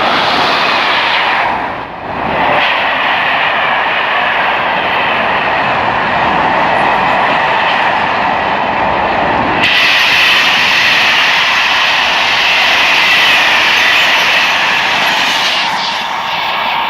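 Train passing close by at speed: a loud, steady rush of wheels on rail, with a brief dip about two seconds in and an abrupt change to a brighter, hissier sound about ten seconds in.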